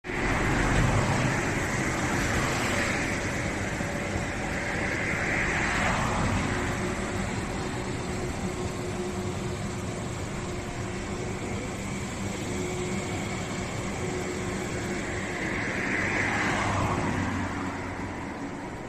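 Frecciarossa high-speed electric train passing: a steady rolling noise of wheels on rails, with brief swells of hissing noise, easing off near the end as the tail end pulls away.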